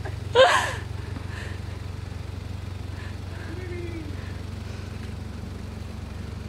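Toyota four-wheel drive's engine running at low revs, a steady low drone, as it crawls up a muddy rutted track. A brief loud shout about half a second in.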